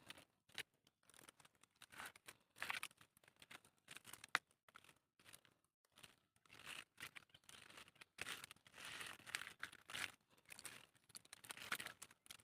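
Faint, irregular rustling and crackling of dry leaf litter and twigs, with scattered small snaps, as someone moves and handles things in dry forest undergrowth.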